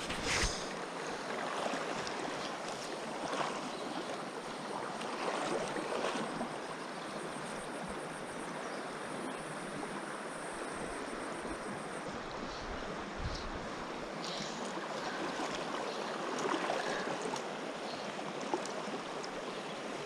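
River water rushing steadily, with a few faint knocks near the start and about two-thirds of the way through.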